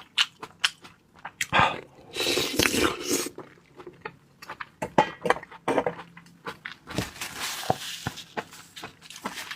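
Close-up eating sounds of chilled raw seafood: wet chewing with many quick mouth clicks and smacks, mixed with light clinks of dishes or utensils.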